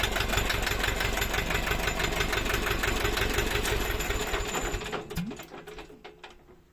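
Mitsubishi 2DR 50C diesel engine running steadily with an even diesel knock, on an injection pump that has been taken apart, cleaned and refitted. About four seconds in it slows and dies away to a stop within about two seconds, with a few faint clicks at the end.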